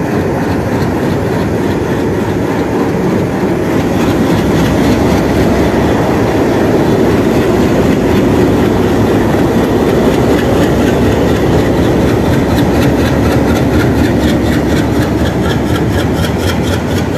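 WDM3A diesel-electric locomotive's ALCO 16-cylinder engine running hard as it pulls its train away, a loud steady rumble over the rolling train. A rapid, even clatter grows plain in the last few seconds.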